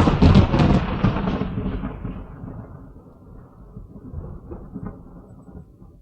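A loud thunderclap at the start, its rumble rolling on and dying away over about five seconds.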